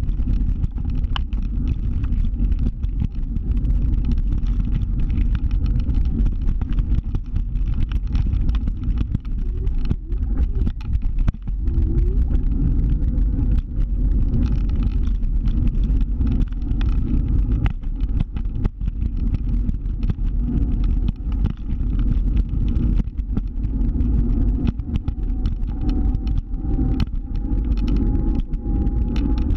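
A scooter being ridden: a steady low rumble of the ride, with scattered clicks and knocks.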